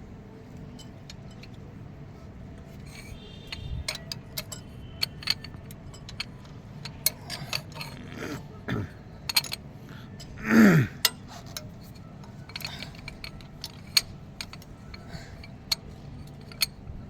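Metal hand tools and engine parts clinking and tapping in irregular, scattered clicks over a low steady hum. A short falling tone about two-thirds of the way in is the loudest sound.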